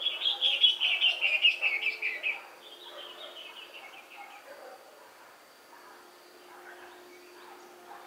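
A bird sings a loud, rapid run of high notes for about two seconds, falling slightly in pitch, then a softer run of similar notes follows.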